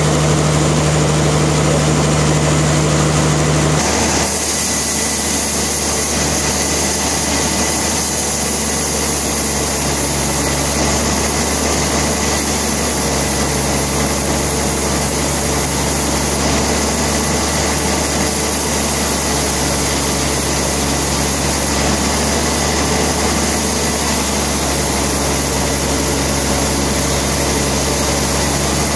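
Sawmill machinery running steadily. About four seconds in, a low hum drops out and a higher hiss comes up, then the sound holds steady.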